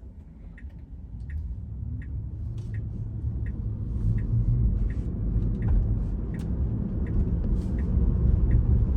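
Tyre and road rumble inside a Tesla's cabin, growing louder as the car picks up speed, with a faint rising whine early on. A turn-signal indicator ticks evenly, about once every 0.7 s.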